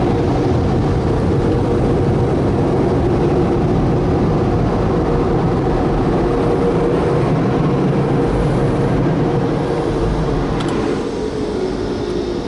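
Car wash tunnel blower dryers: a loud, steady rush of air with a constant hum, easing slightly near the end.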